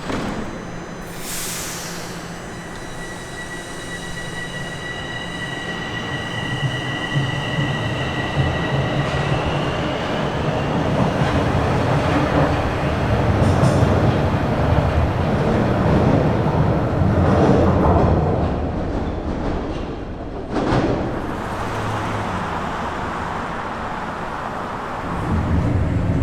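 Bombardier Toronto Rocket subway train pulling away and running through the tunnel: a few steady high-pitched tones over the first several seconds, then rumbling wheel and track noise that builds, with a sharp clack about twenty seconds in.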